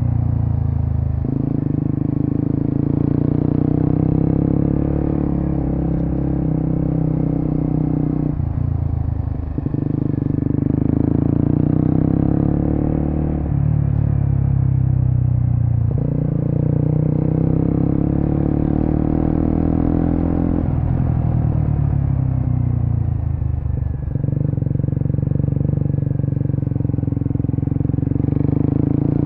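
Suzuki GSX-S150's single-cylinder four-stroke engine running through a Quinze Big Volume aftermarket muffler while riding, its pitch shifting several times as the throttle is rolled off and back on between gears.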